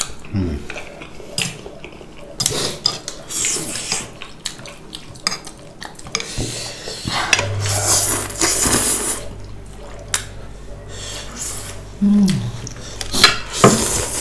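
Eating utensils clinking and scraping against bowls and dishes, with scattered sharp clicks and a few short noisy bursts of eating noise.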